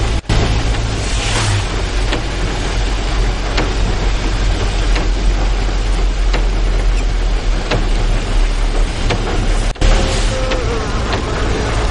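Steady rain with a constant low rumble underneath and scattered sharp drop ticks; the sound drops out for an instant twice.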